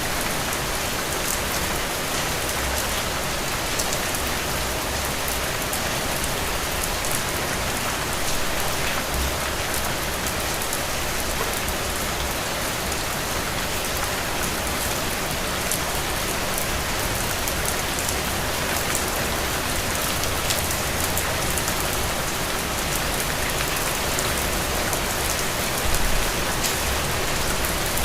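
Heavy rain falling steadily, a dense even hiss with sharp individual drop ticks, and a brief low rumble near the end.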